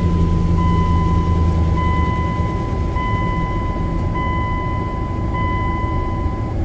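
Freshly oil-changed 2001 Dodge Ram 1500's 5.9-litre V8 just started and running at idle, its low hum strongest for the first couple of seconds. A cab warning chime beeps about once every second and a bit, stopping near the end.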